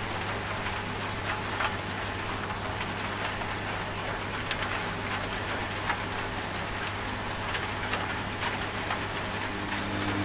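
Steady rain falling, with individual drops ticking, over the steady low hum of a washing machine running.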